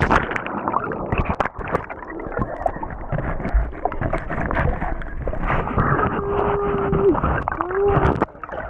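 Rushing waterfall noise with an injured person moaning in pain: one long, level moan about six seconds in that drops off at its end, then a shorter moan that rises and falls.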